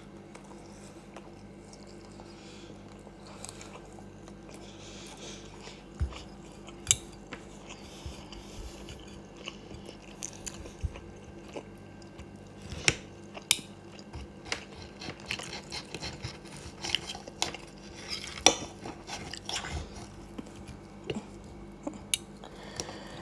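Cutlery clicking and scraping against a plate during a meal, with chewing between the clinks, over a faint steady hum.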